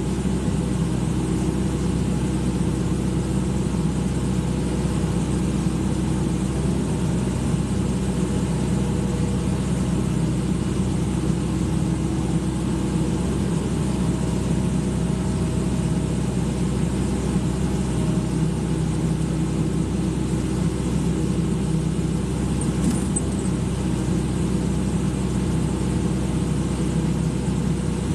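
Excavator engine running steadily at an even speed.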